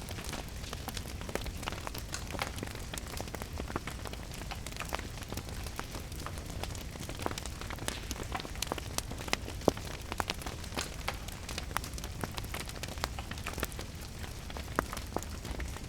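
Wood fire crackling in a fireplace with many irregular sharp pops, over a steady low rumble and the even hiss of rain.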